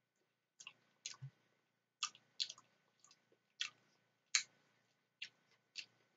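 Close-up chewing of creamy macaroni salad: short, sharp, wet mouth clicks and smacks at an irregular pace, roughly two a second.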